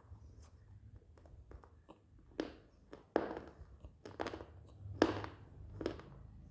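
Hard, dry edible clay being bitten and crunched close to the mouth: about five sharp crunches roughly a second apart, the loudest around the middle.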